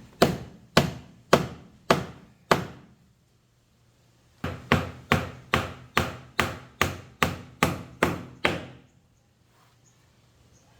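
Hammer driving a nail at an angle into thin boat plywood: a run of about five steady blows, a pause of about two seconds, then about ten quicker blows that stop near the end.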